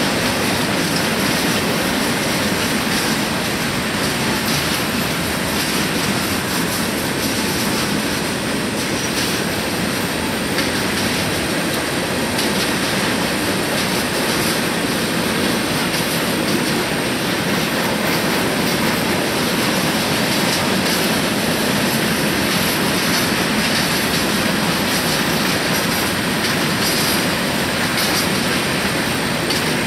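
Freight train cars rolling past at steady speed: a continuous rumble and rattle of steel wheels on the rails, with scattered clicks from the rail joints.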